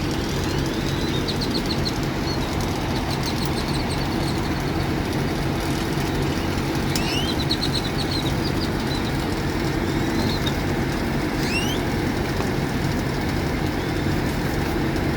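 A large engine idling steadily, with small birds chirping now and then over it.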